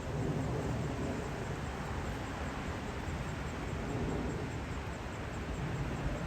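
Steady low rumble and hiss of wind buffeting the microphone while cycling.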